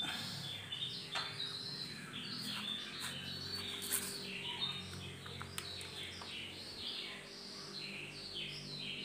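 Small birds chirping rapidly and continuously in short, quick downward-sweeping notes, over a low steady hum with a few light clicks.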